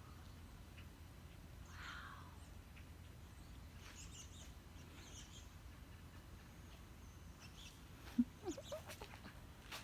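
Faint, scattered calls and chirps from a large flock of birds, with a short, louder low call and a few quick follow-ups about eight seconds in.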